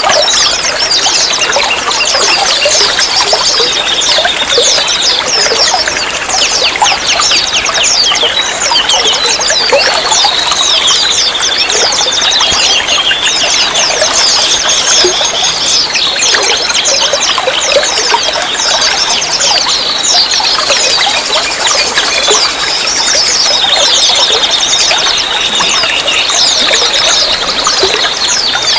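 Running water trickling and pouring steadily, with a wavering high-pitched chirping or squeaking that comes and goes over it.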